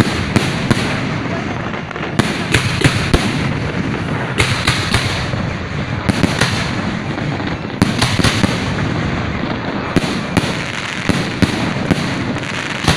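Aerial fireworks going off in quick clusters of sharp bangs every second or two, over a continuous crackle and din of further bursts.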